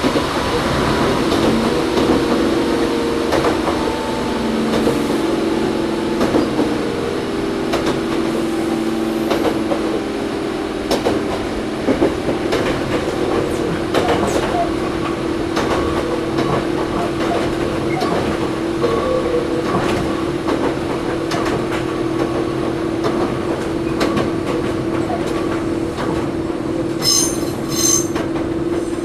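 Onboard running sound of a Toyohashi Railway 1800-series (ex-Tokyu 7200-series) resistance-control electric car, motor car Mo 1854. Its motor hum shifts pitch in steps during the first ten seconds, then holds steady under a scatter of rail-joint clicks. Two brief high-pitched sounds come near the end.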